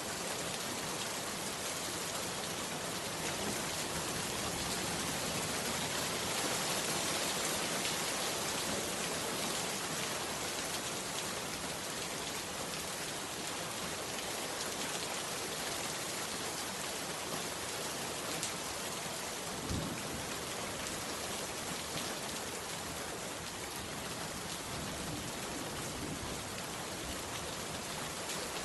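Heavy rain pouring steadily on a bamboo hut, an even hiss of drops with a single dull thump about two-thirds of the way through.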